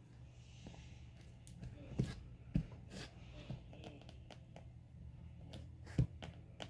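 Paper and craft materials being handled on a work table: a few light taps and knocks, about two to three seconds in and again near the end, with faint paper rustling, over a steady low hum.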